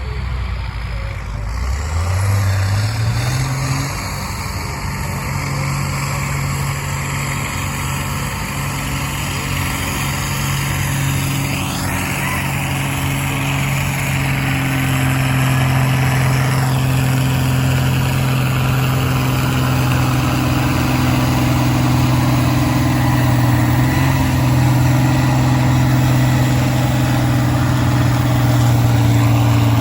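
A pulling tractor's engine revs up hard over the first few seconds, then runs loud and steady at high revs under heavy load, its pitch creeping slightly higher as the pull goes on.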